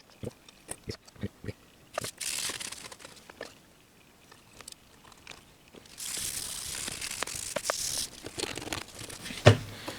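Small parts being handled on a workbench: a run of light clicks and taps, then a steady hiss for about two seconds, and one sharper knock near the end.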